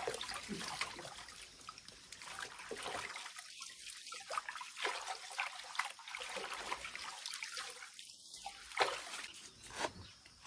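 Water trickling and splashing, with scattered small clicks and knocks, as things are rinsed under running water.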